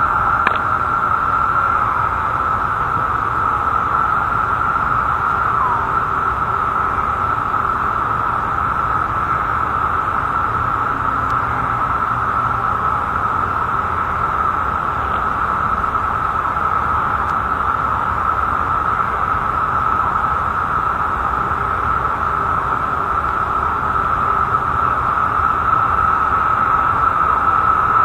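Chorus of Brood X 17-year periodical cicadas, a steady high-pitched drone that does not let up, with now and then a single call dropping in pitch.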